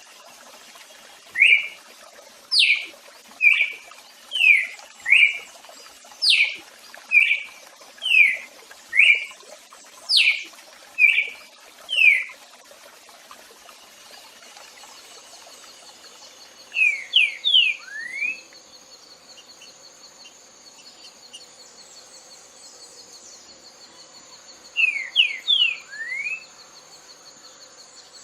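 A songbird singing: a run of about a dozen clear, falling whistled notes, roughly one a second, then after a pause two quick bursts of four rapid notes. A steady high trill comes in underneath about halfway through.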